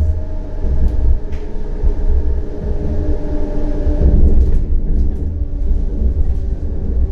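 CAF Urbos 100 tram running on rails: a steady deep rumble with several steady whining tones above it and a few sharp clicks.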